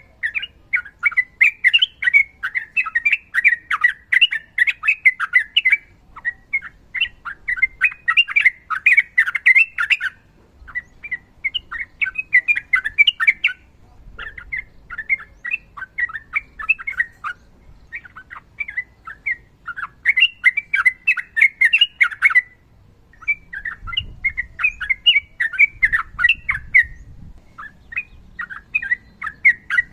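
Sooty-headed bulbul singing long runs of quick, chattering notes in phrases of a few seconds each, broken by short pauses.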